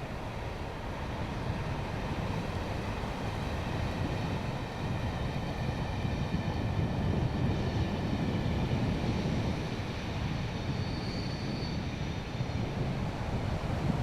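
Class 47 diesel locomotive, with its Sulzer twelve-cylinder engine, running on the line and growing gradually louder as it approaches.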